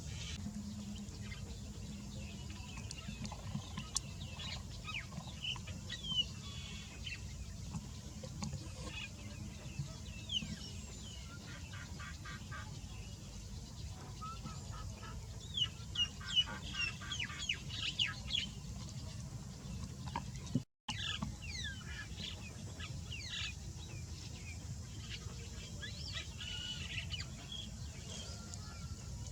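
Birds calling: many short, quickly falling chirps, with bursts of rapid chattering calls toward the middle, over a steady low hum. The sound cuts out for a moment about two-thirds of the way through.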